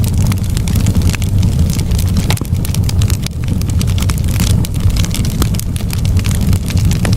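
Campfire burning, with frequent irregular crackles and pops from the wood over a steady low rumble.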